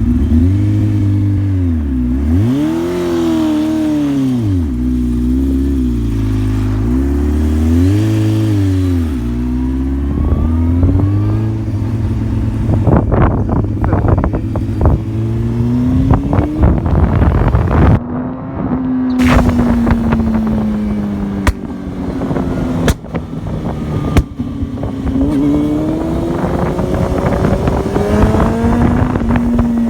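Honda CBR600F2 inline-four motorcycle engine in a quad bike, revving hard, its pitch dropping and climbing several times as it changes gear and accelerates. After about ten seconds, heavy wind buffeting on the microphone rises over the engine note.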